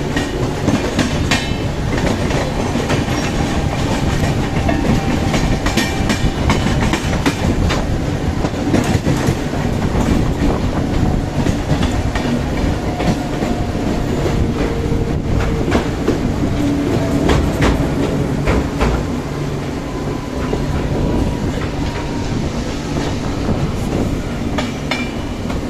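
Passenger train running along the track, heard from inside a coach: a steady rumble of wheels on rail with irregular clicks and clacks over the rail joints, and faint brief squealing tones now and then.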